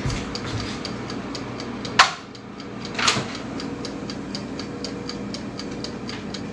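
Steady mechanical ticking, about three ticks a second, over a low steady hum, with a sharp clank about two seconds in and a softer knock a second later.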